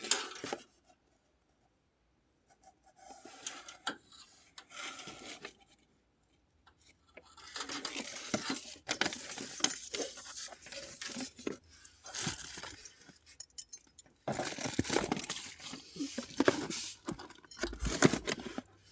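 Close-up handling noise: irregular rustling, scraping and light clinks of hard objects and packaging being moved about, in bursts that grow busier about halfway through.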